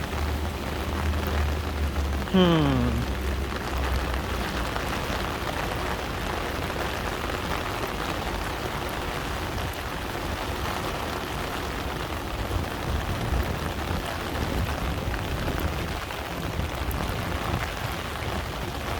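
Heavy rain falling on the street and pavement, a steady hiss. About two seconds in, a short sound falls steeply in pitch, and a low hum sits under the rain for the first few seconds.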